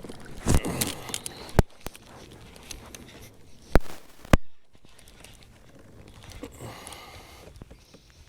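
A few sharp knocks and clatters over steady rustling: fishing gear being handled in a kayak.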